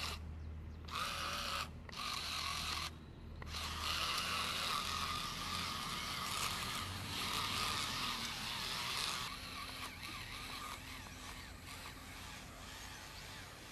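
Small electric gear motor of a miniature wooden model truck with spiral wheels whirring as the truck drives, with two brief breaks in the first few seconds.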